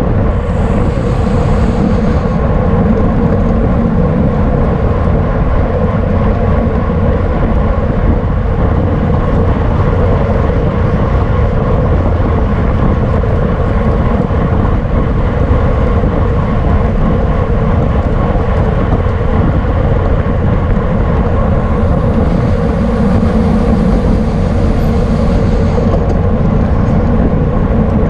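Steady wind rumble buffeting a camera microphone moving at racing speed on a bicycle. It is twice joined briefly by a higher hiss, once near the start and once about three-quarters of the way through.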